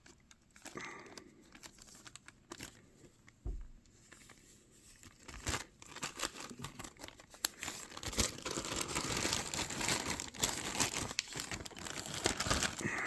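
A small plastic baggie crinkling as it is handled, with scattered light clicks at first, then continuous crinkling through the second half.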